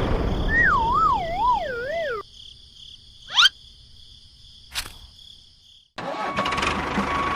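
Edited cartoon-style sound effects: engine noise with a wobbling, falling whistle over it that cuts off suddenly about two seconds in, then a quick rising whoosh and a single click over a thin high hum. Just before the end an engine sound with a fast ticking rhythm comes back.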